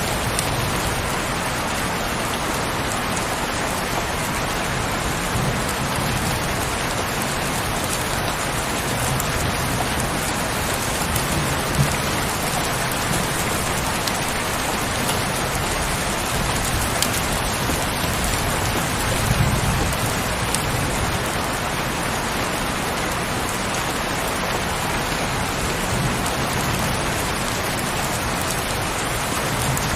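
Heavy rain falling steadily, a dense even patter. A few soft low rumbles swell and fade under it.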